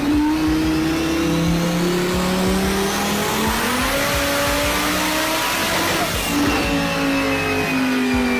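Car engine at full throttle during a dyno pull, its pitch climbing with a step about three seconds in, then easing down slowly after about six seconds as the run winds down, over a loud rush of roller and exhaust noise.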